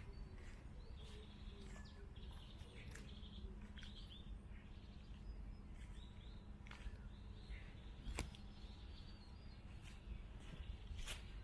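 Songbirds chirping and calling in woodland, many short repeated chirps throughout, faint. A low steady hum sits underneath, and two sharp clicks come about eight seconds in and near the end.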